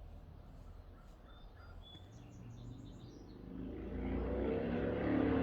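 A motorcycle engine heard from outside, growing louder over the second half as it approaches, with a few bird chirps earlier on.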